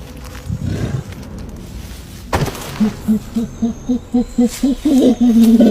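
Silverback gorilla giving a hoot series: short, evenly spaced hoots, about four a second, that get louder, faster and higher and run together near the end. This is the build-up to a chest-beating display. A single sharp knock comes just before the hoots begin.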